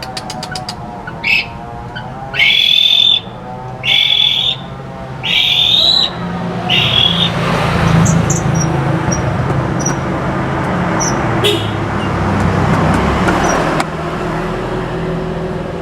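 White-rumped shama (murai batu) singing four short, loud phrases a few seconds in, then giving scattered high chirps. Under them, a vehicle passes with a broad rising and falling noise and a low steady rumble.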